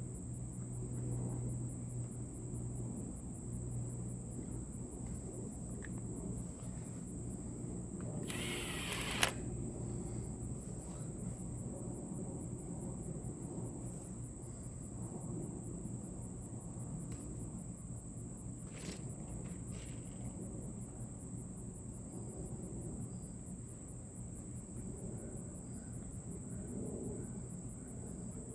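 Crickets trilling steadily and high-pitched over a low outdoor rumble, with a brief scraping noise about eight and a half seconds in that ends in a sharp click.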